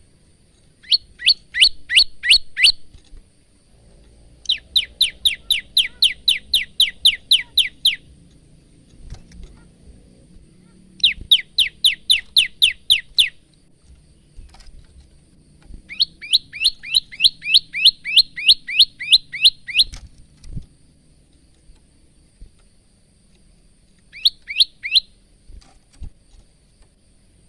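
Male olive-backed tailorbird singing. It gives five phrases of fast, evenly repeated high notes, about four a second, each note sliding downward, with pauses of a few seconds between phrases.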